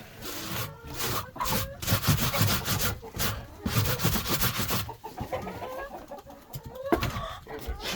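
Rough scraping and rustling strokes, several in a row over about five seconds, as a chicken waterer is handled and dragged through wet coop bedding and dirt. Hens cluck quietly between the strokes.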